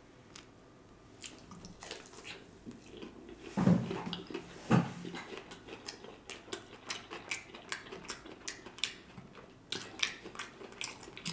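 Biting into a crispy breaded fried chicken tender coated in cheese sauce and chewing it close to the microphone, with many small sharp crunches. Two louder bites or mouth sounds come about four and five seconds in.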